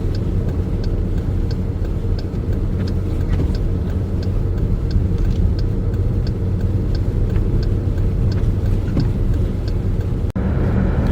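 A vehicle driving through heavy snow: a steady low engine and road rumble, with a light high tick repeating about one and a half times a second.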